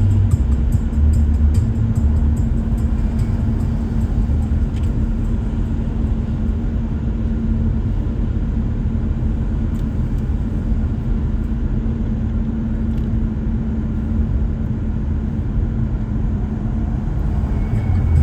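Car driving: a steady low rumble of engine and road noise, with a steady low hum.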